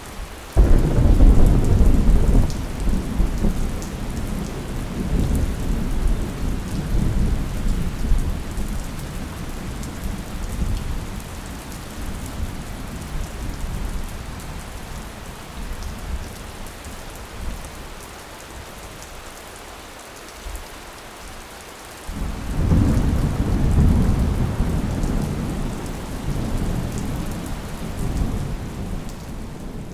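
Steady rain falling with two long rolls of thunder. The first breaks about half a second in and rumbles away over the next fifteen seconds or so; the second breaks about two-thirds of the way through and is still rumbling at the end.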